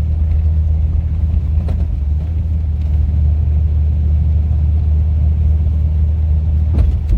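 A 1998 Jeep Cherokee driving through snow, its engine and drivetrain making a steady low drone.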